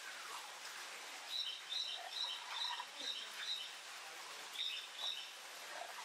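A bird chirping: a run of six short, high chirps about two a second, then two more after a short pause, over a steady background hiss.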